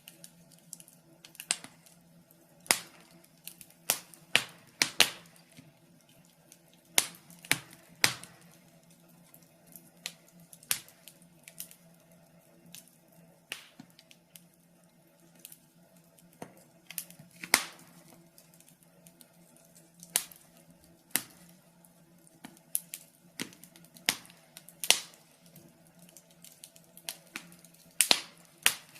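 Fireplace wood fire crackling: irregular sharp pops and snaps, some loud, a few every couple of seconds, over a faint steady low hum.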